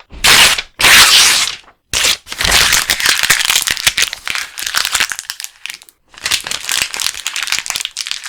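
A sheet of paper being torn by hand: two quick loud rips about a second apart, then longer, slower tearing with crackling and crinkling.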